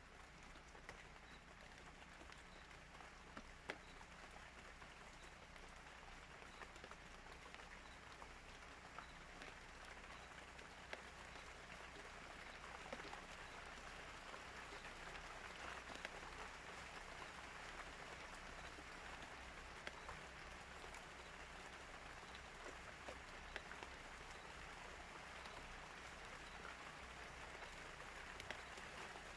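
Steady light rain, a soft hiss with scattered sharp drips, and a cricket chirping faintly at an even pace.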